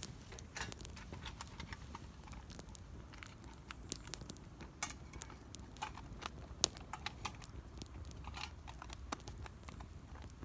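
Wood campfire crackling, with irregular sharp snaps and pops from the burning wood.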